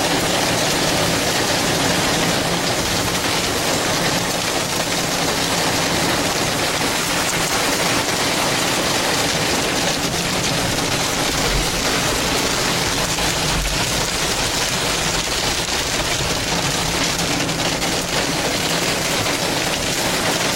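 Steady hiss of heavy rain, with a low steady engine hum beneath it.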